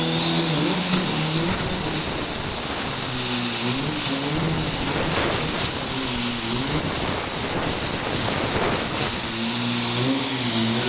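Diesel racing pickup's engine running with a big turbocharger whistling loudly and high-pitched. The whistle rises in pitch at the start and then wavers up and down with the revs.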